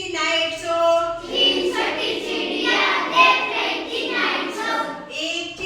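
A group of children singing a Hindi rhyme together, many voices at once.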